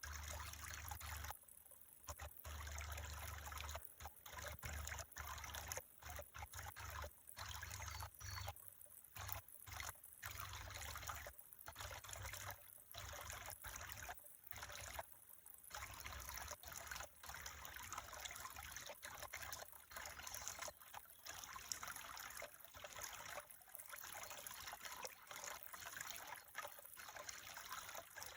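Water trickling steadily, with frequent brief dips in level.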